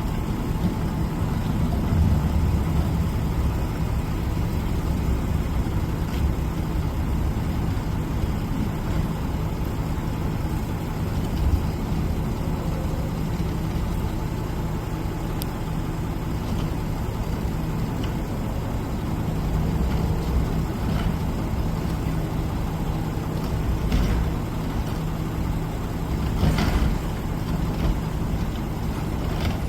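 Heavy garbage truck's diesel engine running steadily, with a couple of short noisy bursts near the end.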